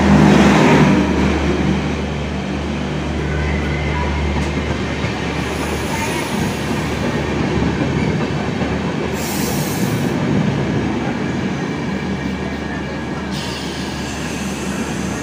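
Sampark Kranti express passenger train rolling slowly into the platform alongside, a steady rumble of wheels and running gear with a low hum. A short hiss comes about nine seconds in.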